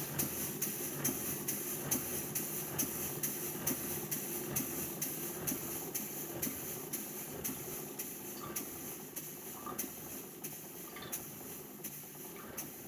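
Model steam beam engine running, with a regular beat of about two and a half strokes a second over a steady hiss, slowly getting quieter.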